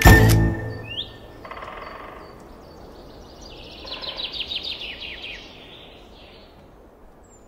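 A music cue cuts off at the very start, then small birds chirp over a faint steady background hiss, with a rapid run of descending chirps a few seconds in.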